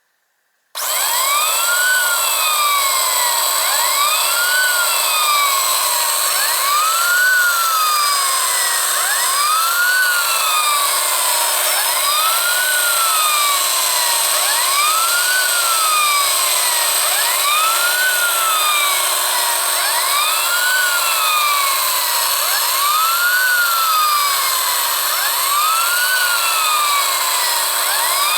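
Electronic police siren from a Scalextric slot car's sound module (spare part W8782), played through a small built-in speaker: a wail that rises and falls about every two and a half seconds. Under it runs the steady whir of the slot car's electric motor. It starts suddenly about a second in.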